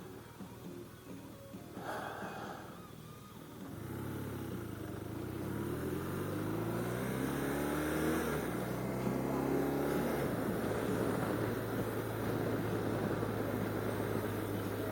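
BMW R1200RT boxer-twin motorcycle engine pulling away. Its pitch rises, drops at a gear change about eight seconds in, rises again, then holds steady at a cruise.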